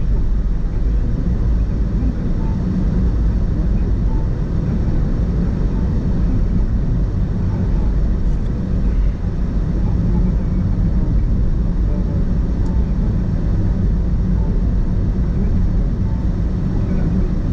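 Car on the move: a steady low rumble of road and engine noise with no change in speed.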